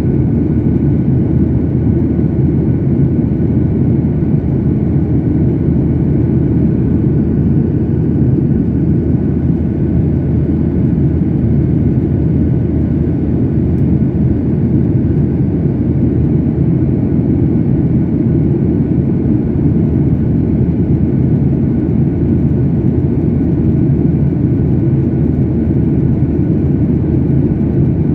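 Steady airliner cabin noise heard from a passenger seat: a loud, even rumble of jet engines and airflow, with a faint steady whine above it.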